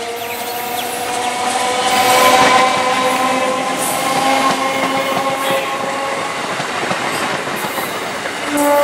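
Electric multiple unit local train passing close by, its horn held in a long blast over the clatter and rush of the wheels on the rails, loudest about two seconds in. A second, lower horn note starts near the end.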